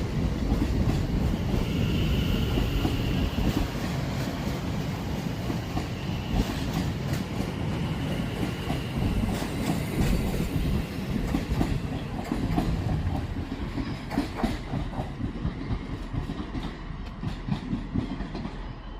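A pair of coupled class 730 electric multiple units running along the platform, wheels clicking over rail joints, with a faint high whine at times. The sound fades gradually over the last few seconds.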